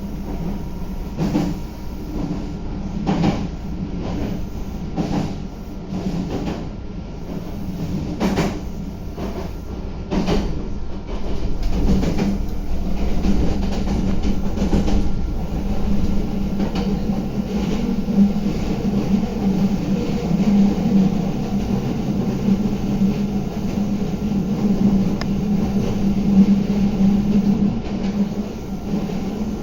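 Meitetsu 3150 series electric train running along the line, heard from on board: wheels clacking over rail joints every second or two at first, then a steadier, louder running noise with a low hum from about a third of the way in.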